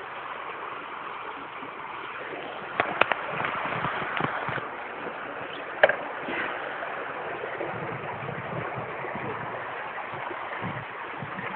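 Mountain bike riding over a crunchy, bumpy rice field trail: a steady rushing noise from the tyres and moving air, with sharp knocks and rattles from the bike about three seconds in and again near six seconds.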